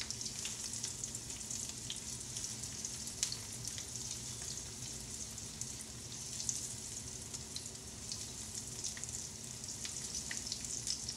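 Coconut-breaded butterflied shrimp frying in shallow oil in a skillet: a steady sizzle with scattered crackles and pops as more shrimp are laid into the oil one by one.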